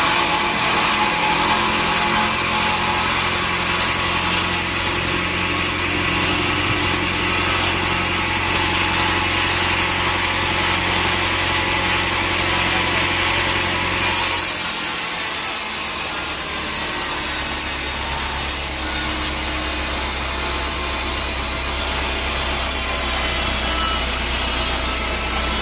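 Sawmill saw running and cutting through teak wood, a steady machine hum under a hissing cut. About fifteen seconds in the sound changes and the low hum dips briefly before coming back.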